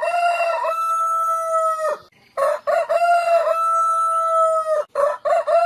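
Rooster crowing, twice in full and a third time starting near the end. Each crow is a few short choppy notes ending in a long held note that drops off abruptly.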